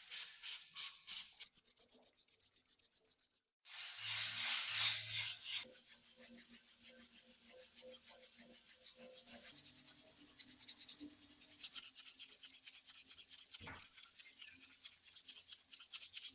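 Rapid back-and-forth hand abrasive strokes on rusty metal, about four a second, like filing or scrubbing off rust. They break off briefly a few seconds in, then carry on steadily.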